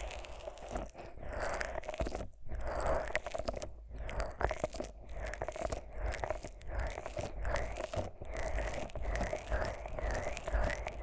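Fingers thick with Vaseline rubbing and massaging the silicone ears of a 3Dio binaural microphone: sticky, wet squishing and rubbing, broken by a few short pauses.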